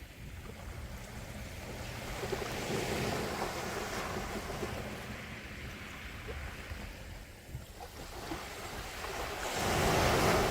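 Sea waves washing ashore: one swell builds and recedes, then a second wave breaks louder near the end.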